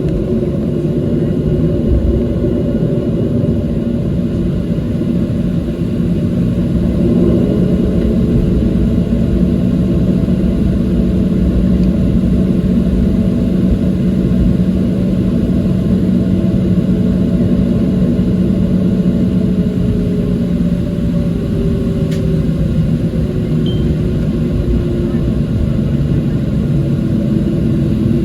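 Boeing 737-700 heard from inside the cabin while taxiing: a steady, loud rumble from its CFM56-7B jet engines, with low engine hums that drift slightly in pitch.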